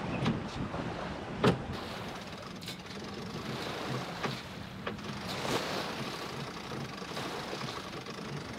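Wind and water noise aboard a sailboat under way, with scattered clicks and knocks from the deck gear and rigging; the sharpest knock comes about a second and a half in.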